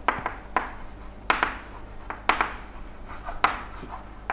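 Handwriting strokes: several irregular sharp taps, each trailing into a short scrape, spaced about half a second to a second apart, over a faint steady hum.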